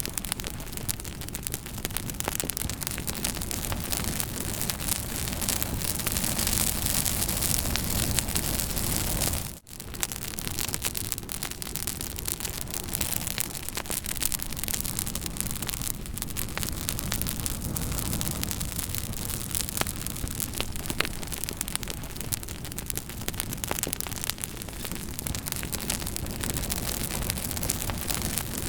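Campfire crackling and popping over a steady rushing hiss. The sound cuts out for a split second about ten seconds in.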